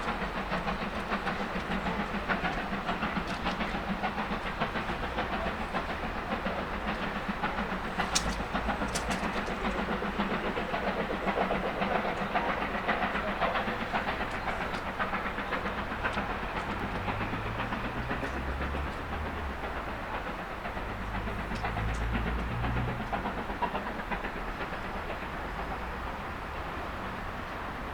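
A train running through the station, its wheels clattering steadily on the rails, fading away over the last few seconds.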